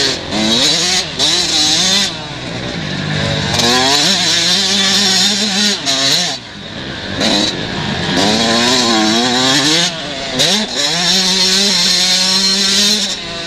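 Several 125 cc two-stroke motocross bikes racing, their engines revving up and down over and over as they accelerate, shift and back off around the track.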